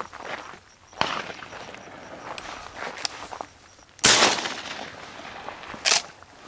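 A shotgun shot about four seconds in, sharp and loud with a short decaying tail, followed near the end by a shorter, higher crack.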